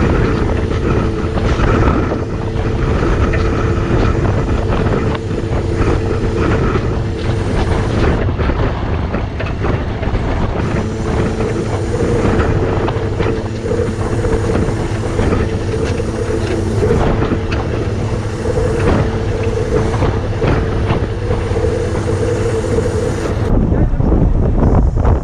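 Crane truck's engine running with a steady whine, which breaks off for a couple of seconds about a third of the way in and then resumes, under heavy wind buffeting the microphone.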